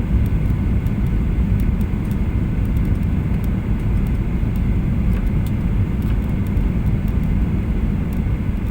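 Boeing 737-800 cabin noise heard from a passenger seat on the ground after landing: a steady low rumble of the engines and airframe, with faint light ticks now and then.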